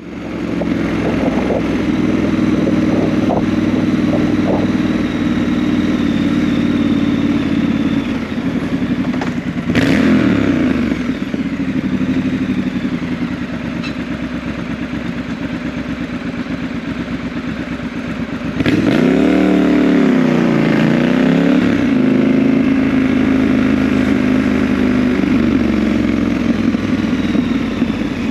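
Motorcycle engine running steadily under way. There is a sudden change about ten seconds in, and around twenty seconds in the engine note dips and rises again as the revs change.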